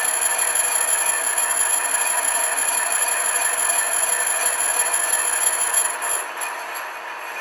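Milling machine cutting metal with a brazed-tip cutter: a steady grinding noise with a high whine through it. It drops quieter about six seconds in.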